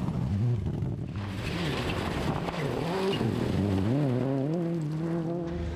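Rally car engine revving, its pitch repeatedly climbing and dropping, then settling at a higher steady pitch near the end.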